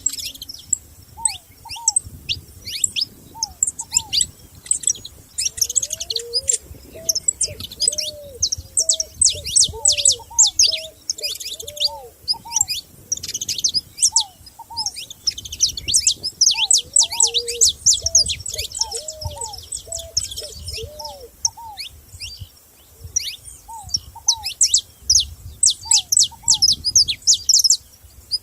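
Several wild songbirds singing together: a dense chorus of fast, high chirps and trills, with a lower, repeated short call in phrases underneath.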